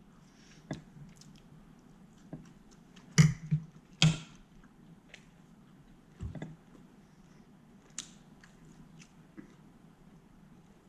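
A person chewing a mouthful of baked salmon close to the microphone: soft scattered mouth clicks and smacks, with a few louder knocks near the middle.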